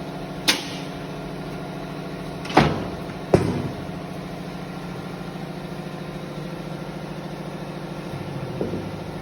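Machinery running with a steady, even hum, broken by three sharp knocks in the first few seconds, the last two the loudest.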